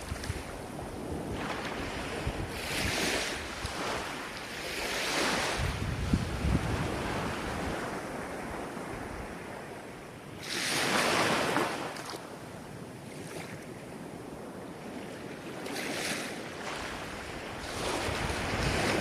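Ocean waves breaking and washing on the shore in a steady wash of surf, with several surges, the biggest about ten seconds in. Wind buffets the microphone with a low rumble at times.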